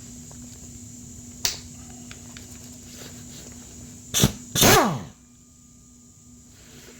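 A person sneezing: a short burst followed by a louder sneeze whose pitch falls, a little past halfway. A sharp click sounds earlier.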